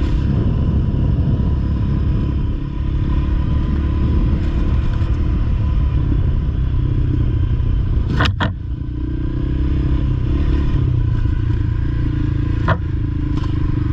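Honda CRF300L single-cylinder dirt bike engine running under way on a sandy trail, with a steady low rumble. Sharp knocks sound twice in quick succession about eight seconds in, and once more near the end.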